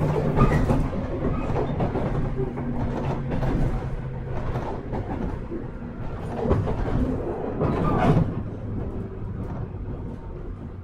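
JR 103 series 1500-subseries electric multiple unit running on the rails, heard from on board, with a few clacks as the wheels cross rail joints. A steady low motor hum fades out about halfway through, and the running sound grows gradually quieter.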